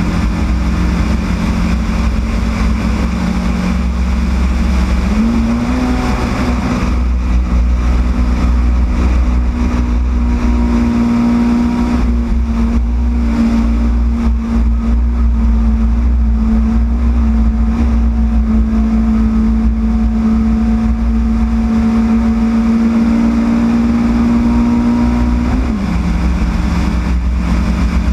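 Yugo race car's four-cylinder engine running hard, heard from on board under a heavy low rumble. Its pitch climbs about five seconds in, holds steady for about twenty seconds, then drops back near the end.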